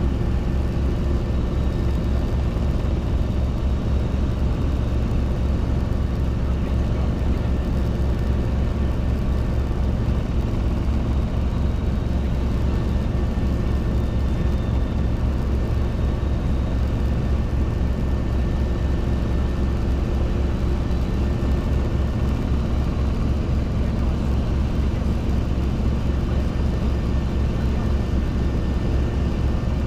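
Robinson R22 helicopter in cruise flight: a steady drone of engine and main rotor with a fast, even low beat.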